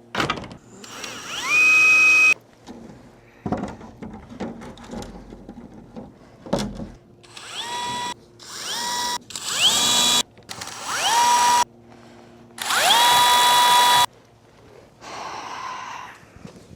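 Power drill run in about seven short bursts, each whine rising quickly in pitch as the motor spins up, then holding steady, as it works through the corrugated PVC roof panel. A few sharp knocks fall between the bursts.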